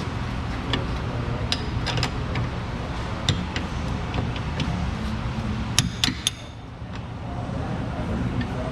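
Scattered metal clinks and taps from hand tools and suspension hardware being worked, over a steady low hum, with a few sharp clicks close together about six seconds in.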